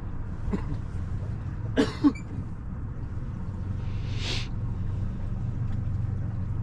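A boat motor hums steadily and low. About two seconds in, two short, loud throat sounds from a person come close together, and a brief hiss follows a couple of seconds later.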